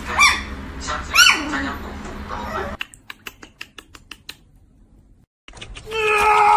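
A cat meowing twice, two arching calls about a second apart, followed by a run of quick clicks. A louder steady sound with held tones begins near the end.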